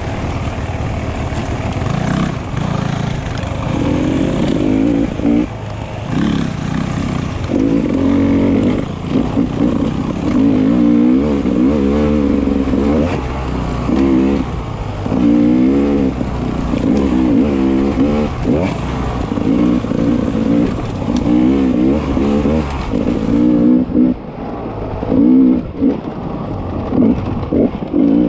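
Beta 300 RR two-stroke enduro motorcycle engine revving up and down over and over as the throttle is worked.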